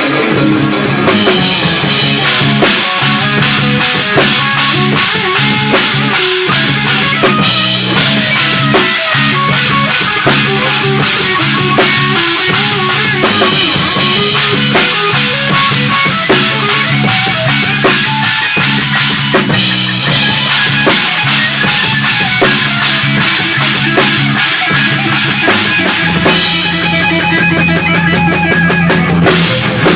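Instrumental section of a rock band's song: a drum kit with bass drum and snare keeps a steady beat over bass and other instruments.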